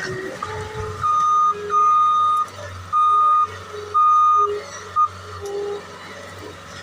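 Skid steer's backup alarm beeping in reverse, four long beeps about once a second and a short fifth one, over the steady hum of its diesel engine.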